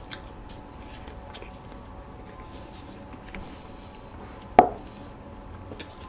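Close-miked chewing of a soft walnut cake filled with red bean paste, with small wet mouth clicks. One sharp knock about four and a half seconds in.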